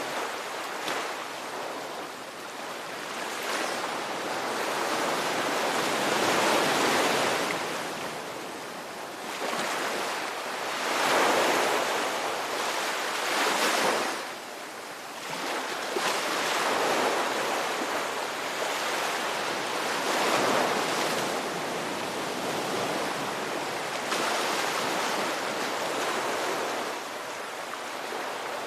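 Ocean waves breaking and washing on a shore, a steady surf noise that swells and ebbs every few seconds.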